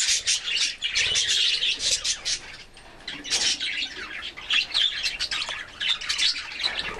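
A flock of budgerigars chattering, with rapid high chirps, warbles and squawks overlapping throughout, easing off briefly about halfway before picking up again.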